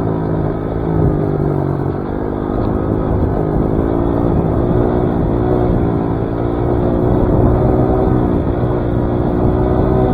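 Dirt bike engine running while riding, its pitch wavering slightly up and down with the throttle.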